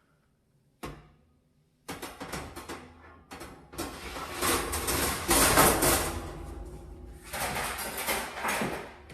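A single knock just under a second in, then scrubbing on a dirty oven or stovetop: a run of rasping strokes that grows louder in the middle and comes back in a second strong stretch near the end.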